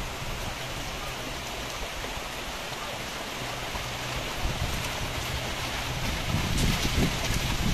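Steady hiss of light rain falling, with wind buffeting the microphone in low rumbles that build over the second half.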